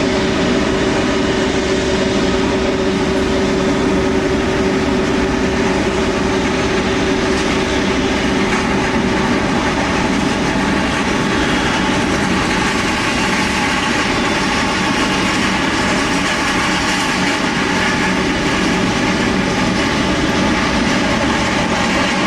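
Jet airliner engines running with a steady, loud noise and a steady whine that fades by about halfway through.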